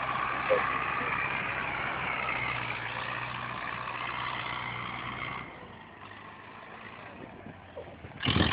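Tractor engine running steadily. About five and a half seconds in, the engine sound drops away, and a short, loud rush of noise comes near the end.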